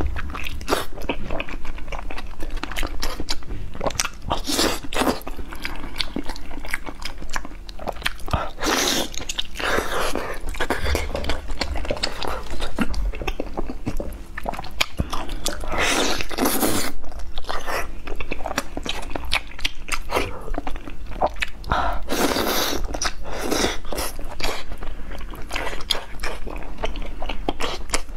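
Close-miked biting and chewing of braised pork knuckle skin: wet, clicking mouth sounds, with louder bursts of chewing now and then.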